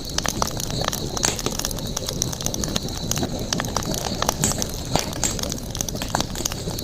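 Campfire crackling: burning wood gives irregular sharp pops and snaps, several a second, over a low, even rush of flame. A steady high-pitched hiss runs underneath.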